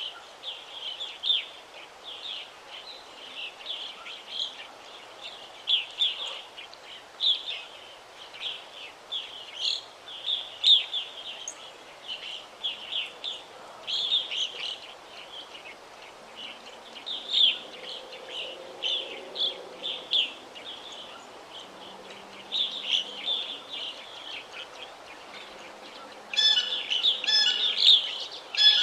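Songbirds chirping and singing, many short high chirps in quick succession. Near the end a louder, fuller song joins in.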